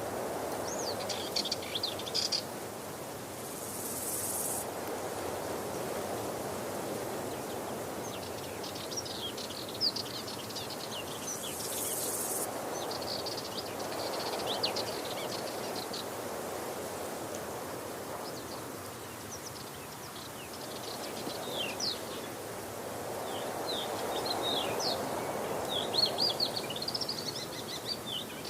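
Waterfall rushing steadily, slowly swelling and easing, with small birds chirping over it on and off. Two short high hisses come about 4 and 12 seconds in.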